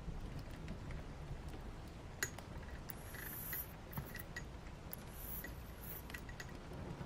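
Steady rain ambience with a low rumble, dotted with small clicks and taps, and two brief high-pitched scratchy sounds about halfway through.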